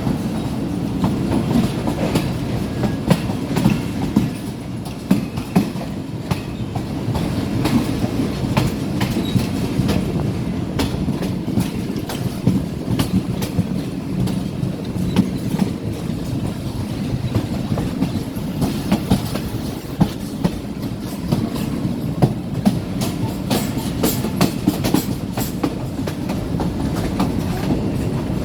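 Moving passenger train heard from aboard: a steady low rumble with frequent, irregular sharp clicks and clacks of the wheels running over the rails.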